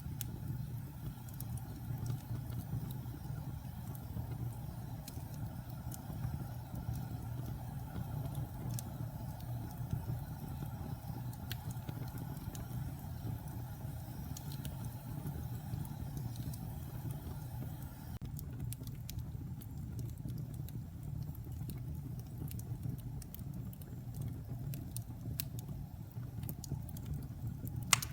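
Wood fire burning in a fireplace: a steady low rush of flames with scattered sharp crackles and pops, one louder pop near the end.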